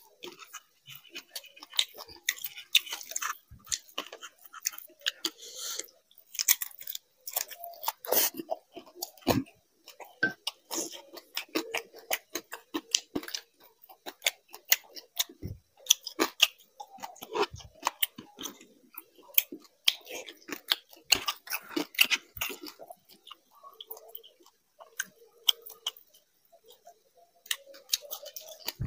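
Close-miked chewing of fried fish and rice eaten by hand: a dense, irregular run of crisp clicks and crackles from mouth and fingers.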